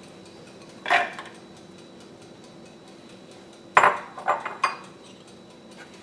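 A spoon knocking against a dish while mayonnaise is scooped out: one knock about a second in, then three more in quick succession about four seconds in.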